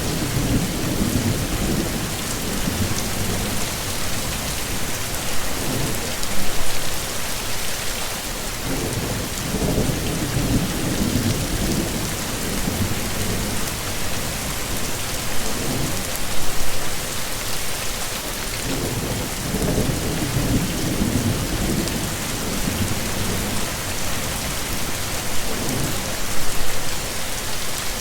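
Heavy rain falling steadily, with low rumbles of thunder rolling in and fading several times.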